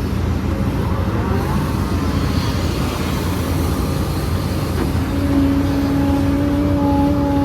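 Heavy diesel earthmoving machinery running with a steady low rumble; about five seconds in, a steady engine tone sets in above the rumble.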